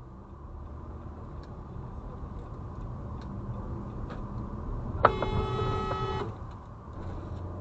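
Car horn honking once for about a second, about five seconds in, over steady road and engine noise: a warning at a driver who has cut across the car's lane.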